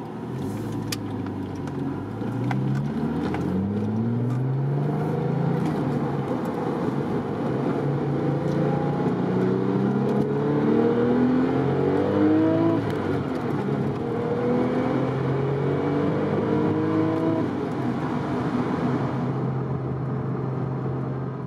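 2003 Porsche 996 Turbo's twin-turbo flat-six accelerating through several gears, heard from inside the cabin: the engine note rises, drops at each upshift and climbs again, then settles into a steady cruise near the end.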